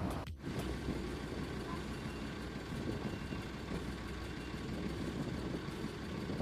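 An engine running steadily, with a brief cut-out about a third of a second in.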